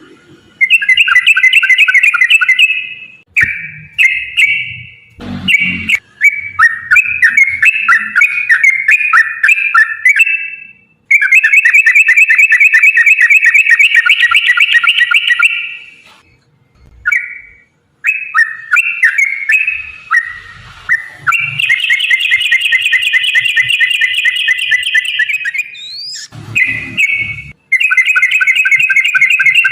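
Yellow-vented bulbul (trucukan) singing in long, rapid rolling chattering phrases, the fast 'ropel' song, repeated with short pauses between them.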